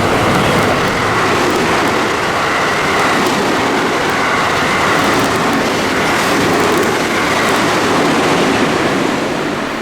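Train passing through a station platform without stopping: a loud, steady rush of wheels and running gear on the rails.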